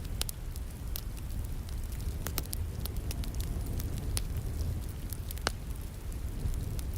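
Wood fire in a fireplace crackling, with irregular sharp pops and snaps over a steady low rumble, mixed with the continuous hiss of falling rain.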